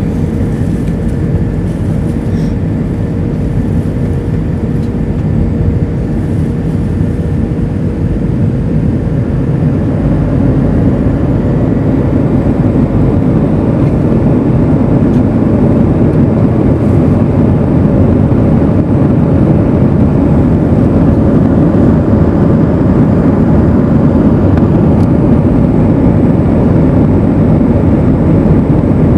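Airbus A320 cabin noise: a steady low rumble of the engines and airflow. It grows somewhat louder from about ten seconds in.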